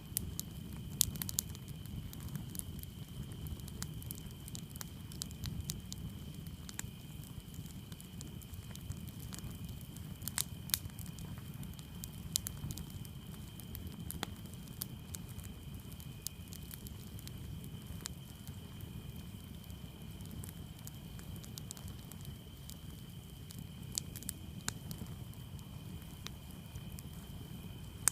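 Campfire crackling and popping with irregular sharp snaps, over a low steady rumble of the burning fire. Crickets chirp steadily in the background.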